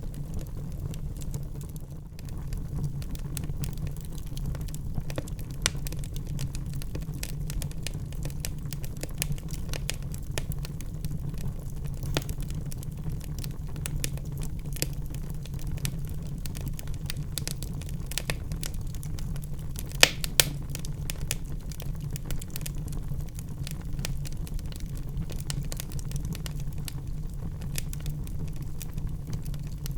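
Wood fire crackling in a fireplace: a steady low rumble of the flames with many small crackles and pops, and two sharper pops close together about two-thirds of the way through.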